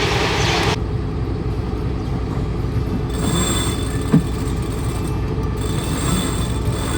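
Sailboat's inboard engine running steadily with an even low chugging, on a test run after repair work. A brief rising squeak comes about four seconds in.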